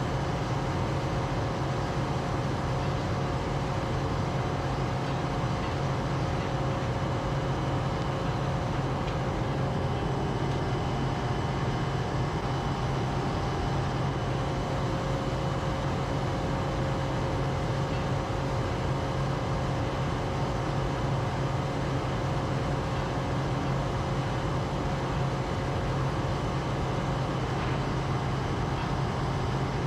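Steady, unchanging drone of a running engine or vehicle, with a strong low hum and a few faint steady tones above it.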